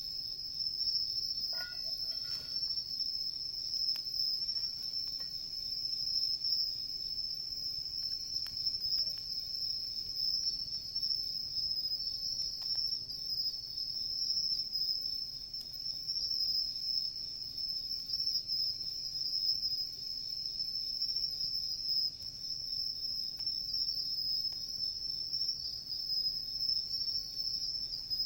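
Chorus of singing insects, a steady high-pitched trill without pause, with a few faint clicks from the crackling bonfire.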